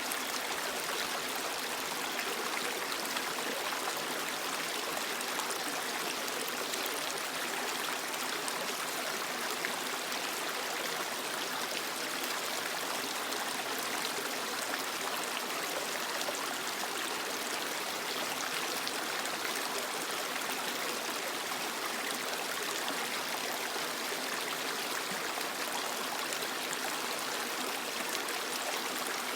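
A creek flowing steadily over rocks: a constant, even rush and trickle of water.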